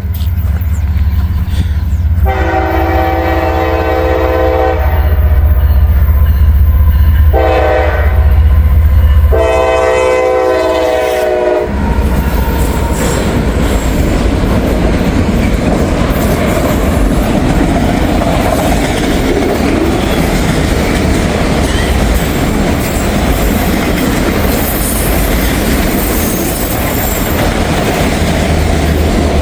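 Freight train passing a grade crossing: the diesel locomotive's air horn sounds a long blast, a short one and another long one over a deep engine rumble, the end of the crossing signal. From about twelve seconds in, the locomotive has gone by and empty auto-rack cars roll past with steady wheel-on-rail clatter.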